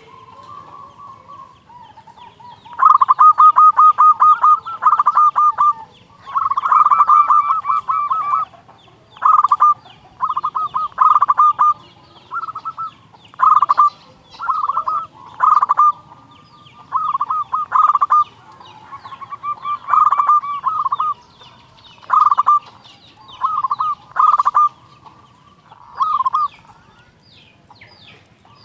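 Zebra dove (perkutut) cooing loudly, a burst of fast stuttering coo notes every second or two. Softer calls come first, and the loud bouts start about three seconds in.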